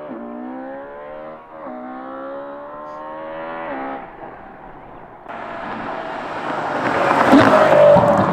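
Ferrari F12 Berlinetta's V12 accelerating hard through the gears with a free-flow X-pipe and valved exhaust: a high-pitched rising note, dropping back at upshifts about one and a half and four seconds in. Near the end it comes up close and loud as the car sweeps past.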